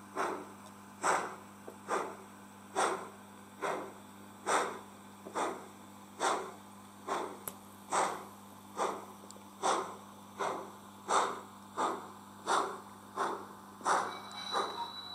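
Digital steam chuffing from the ESU LokSound decoder of a Märklin H0 class 55 (Prussian G 8.1) model locomotive, played through a small speaker: even exhaust beats about one a second, coming slightly faster toward the end, over a steady low hum.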